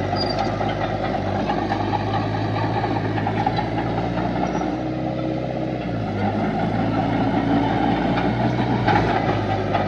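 Heavy diesel engine of earthmoving machinery running steadily under work, its note shifting about six seconds in.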